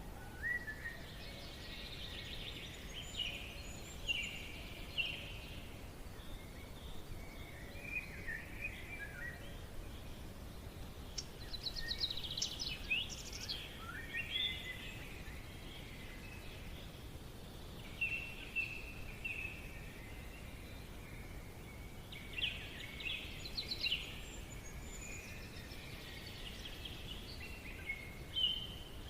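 Forest ambience: several birds singing and calling in short phrases and trills, over a steady low background hiss.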